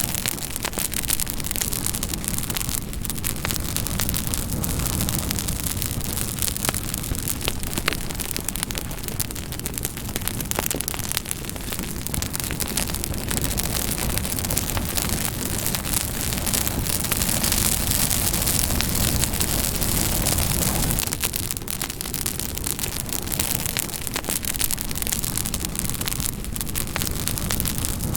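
Campfire burning with continuous dense crackling and popping over a low rumble of flames; the rumble eases off about 21 seconds in.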